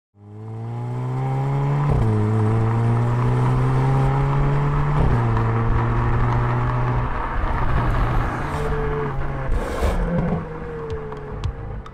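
Hyundai Kona N's 2.0-litre turbocharged four-cylinder accelerating hard, the engine note climbing and dropping sharply with quick upshifts twice, about two and five seconds in. Near the end it eases off as the car passes by.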